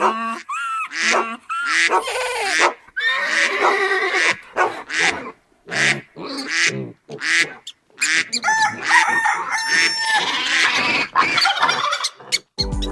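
Recorded farm-animal calls played one after another: a run of short, varied calls with brief gaps between them, fowl calls among them.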